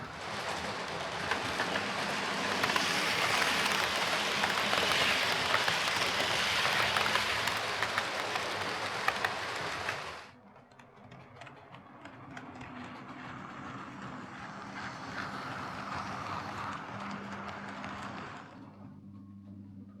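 Bachmann Class 37 OO gauge model locomotive running along the track, its motor and wheels making a steady rushing rumble over a low hum, now running again after its motor was freshly cleaned with a spray. It is loud for about ten seconds, then drops suddenly and carries on more quietly before fading near the end.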